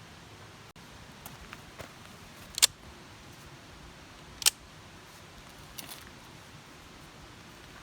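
A few sharp clicks or knocks over steady background hiss, two of them much louder and about two seconds apart, with fainter ticks between.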